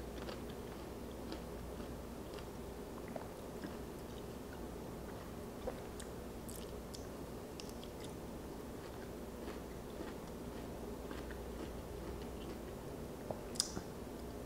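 Faint biting and chewing on crunchy dill pickle spears, with small clicks scattered through and a couple of sharper clicks near the end, over a low steady hum.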